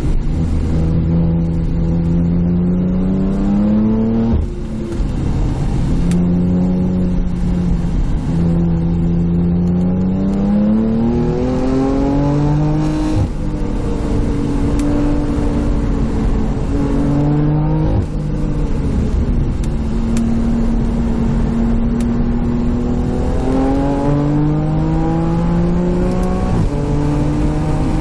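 A car engine driven hard through the gears. Its pitch climbs steadily and then drops sharply at each gear change, about 4½, 13 and 18 seconds in, with steadier stretches between the climbs.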